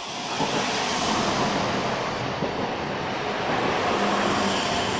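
Passenger multiple-unit train pulling into the station and running past close by: a steady rushing rumble of wheels on rail that swells about half a second in.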